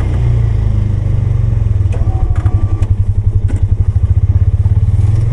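Polaris 570 single-cylinder engine running under load while plowing snow, its level pulsing rapidly for a few seconds in the middle, with a few knocks and clatters from about two seconds in.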